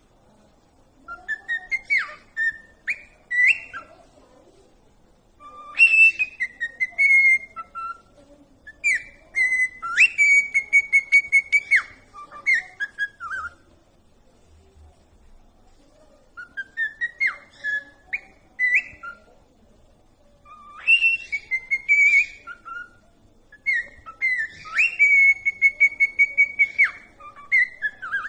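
A pet bird whistles a tune in six repeated bouts with short pauses between them. Each bout mixes short notes with rising and falling slides, and some hold one long steady note.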